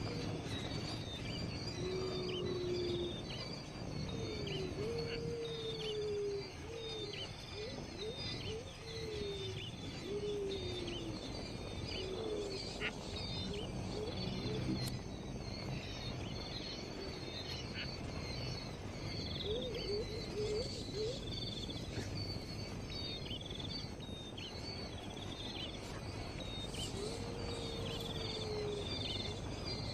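Birds chirping outdoors: short high chirps repeat rapidly throughout, with lower, drawn-out gliding calls in the first half and again near the end, over steady background noise.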